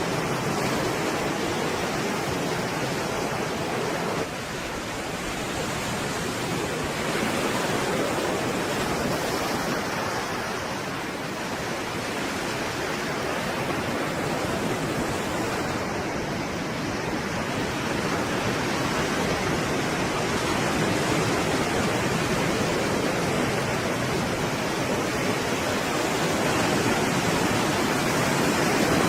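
Stormy sea surf: a continuous wash of breaking waves that swells and eases slowly, with a slight sudden dip in level about four seconds in.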